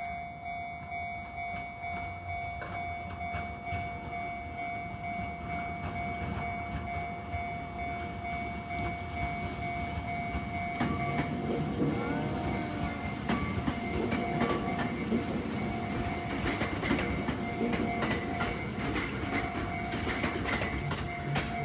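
A train running on the rails, its wheels clicking over the rail joints, with a steady high whine throughout. The rumble and clatter grow louder about halfway through as it comes closer.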